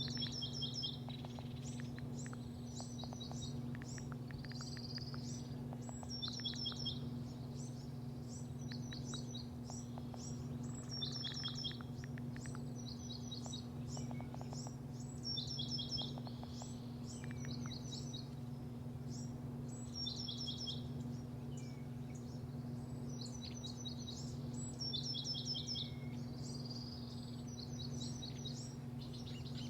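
Small birds chirping, short quick high notes in bursts every second or two, over a steady low hum.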